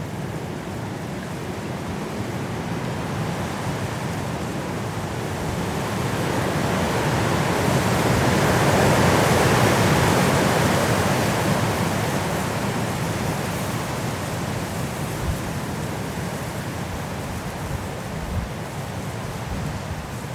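High wind blowing through trees in a snowstorm, swelling into a strong gust about halfway through and then easing off. There are a couple of brief low thumps near the end.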